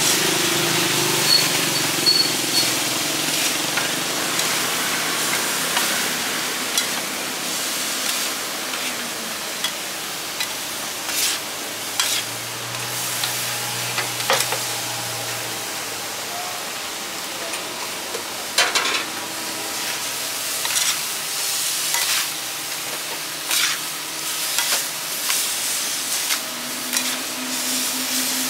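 Food sizzling as it fries in a pan, with occasional sharp clicks and knocks of a utensil stirring it.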